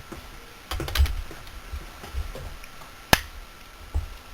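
Socket ratchet and metal parts clicking and knocking as the nut on a chainsaw's centrifugal clutch is tightened: a cluster of clicks about a second in, then one sharp click a little after three seconds and another near the end.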